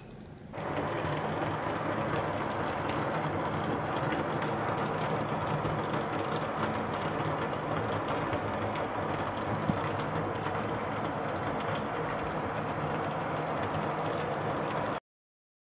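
Heavy rain pouring steadily, a dense even hiss, with a faint low steady hum beneath it. It starts about half a second in and cuts off suddenly near the end.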